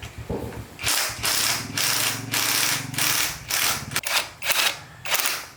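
Repeated mechanical ratcheting strokes, about one every half second, over a faint low hum.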